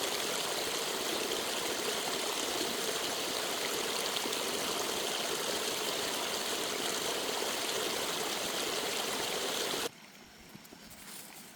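Rushing water running steadily, then cutting off abruptly about ten seconds in.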